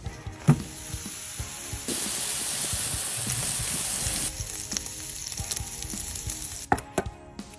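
Ground beef sizzling as it fries in its fat on a hot griddle, the sizzle loudest from about two to four seconds in and fainter afterwards. A sharp knock about half a second in, as the griddle is set down on the grill, and a few sharp clicks near the end.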